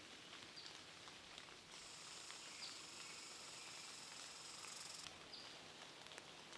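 Faint forest ambience: a high, thin trill that starts about two seconds in and lasts about three seconds, with short high calls, each dropping slightly in pitch, repeating every couple of seconds.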